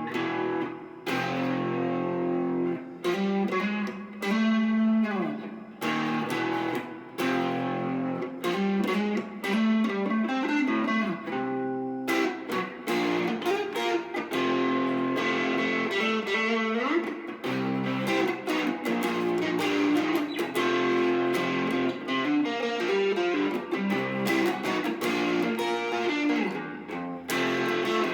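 Squier Classic Vibe '70s Stratocaster electric guitar played through a Marshall MG30DFX amp: classic-rock chords and riffs, with short stops between phrases and a few bent notes.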